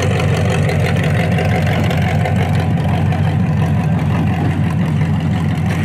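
Demolition derby car engine idling steadily, a loud low rumble.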